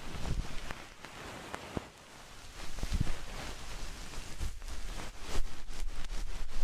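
Close-miked ASMR trigger sounds: an even crackle with scattered light taps and a couple of soft thumps, turning into quicker, denser tapping in the last second or two.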